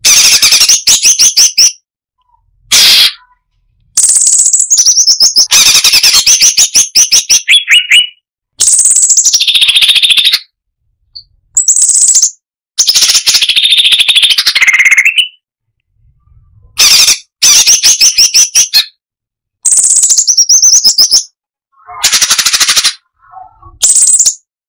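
Cucak cungkok singing in loud, dense bursts of rapid-fire repeated notes mixed with whistled glides, about ten phrases of one to four seconds each, separated by short pauses.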